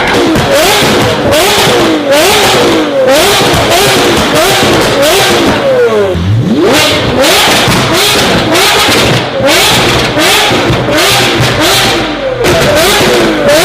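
Supercar engine revved in quick blips, about two a second, each rising and falling in pitch, with one longer rev climbing about halfway through. Sharp pops and crackles mark the throttle lifts, the kind of exhaust backfire that comes with flames.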